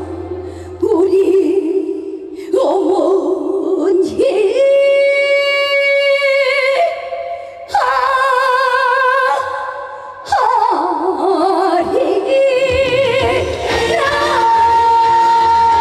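A woman singing a Korean trot song live over a backing band, with long held notes and a wide, heavy vibrato; a long steady high note is held through the last seconds.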